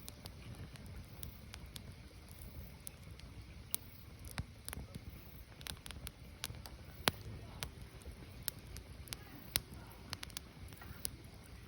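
Firewood burning, crackling with sharp irregular pops, one or two a second, over a low steady rumble of the fire.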